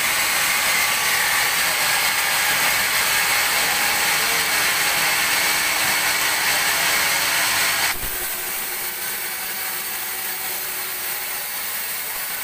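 Band sawmill sawing a teak log, a loud steady high-pitched hiss. About eight seconds in it cuts off sharply with a click and drops to a quieter, steady running sound.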